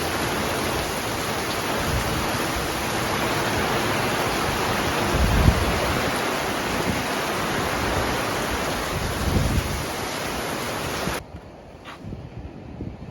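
Steady, dense rushing of water, surf or heavy storm rain, with a couple of low thumps about five and nine seconds in. It cuts off suddenly about eleven seconds in to a much quieter wind noise.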